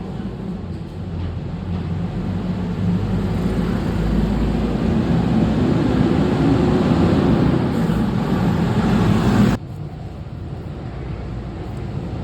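Motorcycle engine running, growing louder over the first several seconds, then dropping abruptly to a quieter level about nine and a half seconds in.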